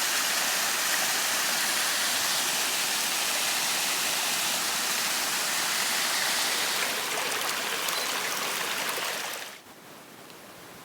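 Mountain creek rushing steadily with a good late-season flow, then cutting off abruptly near the end.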